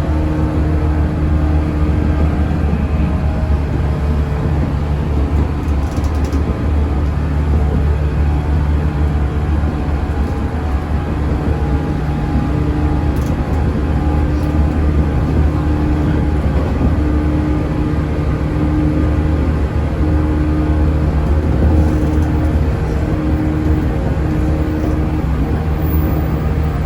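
Inside a JNR-era electric train on the move: a steady running rumble of wheels on the rails with a low motor hum, plus a pitched tone that keeps fading in and out.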